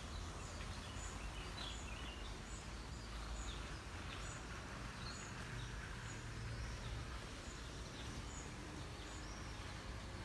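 Outdoor park ambience: a small bird repeats short high chirps every half second or so over a steady low background rumble.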